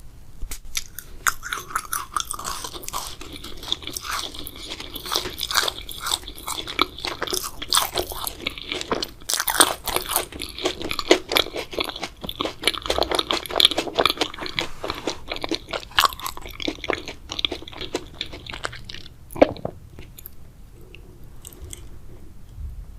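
Close-up mouth sounds of chewing and biting purple grape jelly, a dense run of quick wet clicks and crackles that dies away about four-fifths of the way through.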